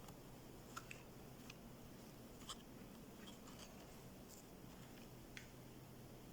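Near silence with about half a dozen faint, short clicks scattered through it.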